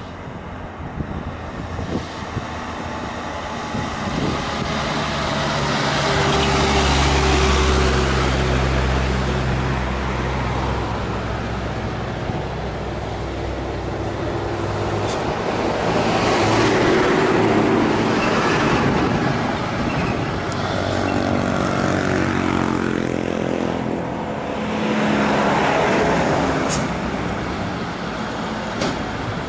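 Heavily loaded truck's diesel engine labouring up a steep climb. It gets louder and fades again several times, and its pitch slides about two-thirds of the way through.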